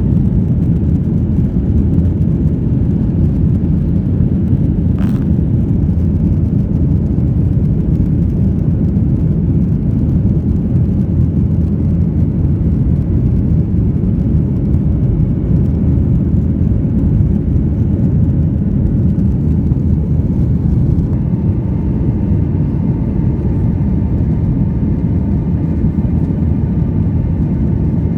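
Cabin noise of a Boeing 737-800 in flight just after takeoff: its CFM56 engines and the airflow make a steady low rumble, and a faint higher hum joins about two-thirds of the way through.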